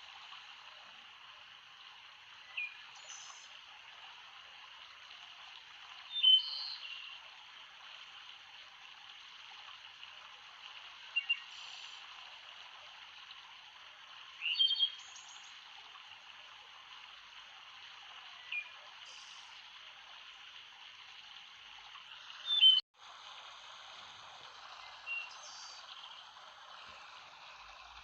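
Steady hiss of flowing water, with a short high chirping call repeating every few seconds over it. The sound cuts out for an instant about 23 seconds in.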